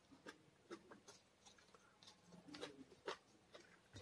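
Faint eating sounds of a mouthful of rice being chewed: wet mouth clicks and smacks at uneven intervals, the sharpest about three seconds in.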